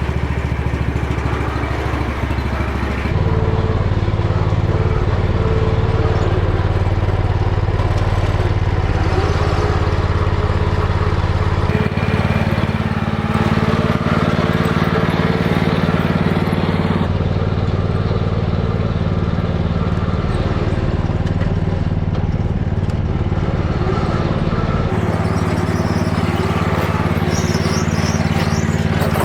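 A 1978 Cub Cadet 1000 garden tractor's engine running steadily, its pitch and tone shifting abruptly a few times.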